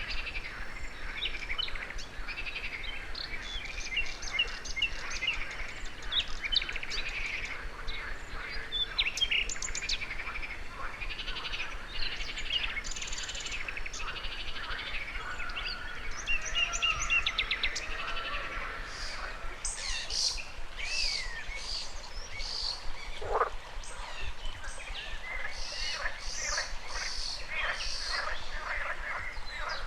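A dense chorus of songbird chirps and trills mixed with frog calls, over the steady rush of flowing river water. About three-quarters of the way through, one call slides steeply down in pitch.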